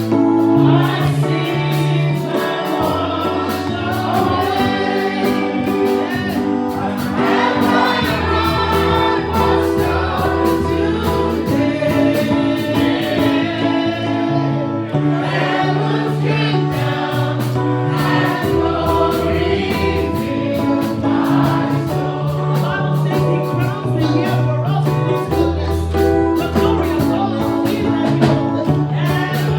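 Gospel praise song: a choir singing over a band with sustained bass and keyboard chords and a steady, fast percussion tick.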